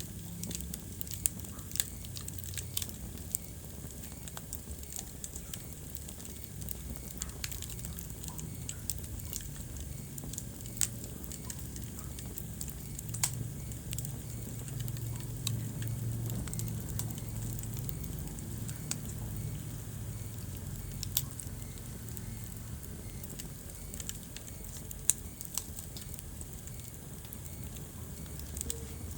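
Wood fire burning in a fireplace: irregular sharp crackles and pops over a low, steady rumble of flame.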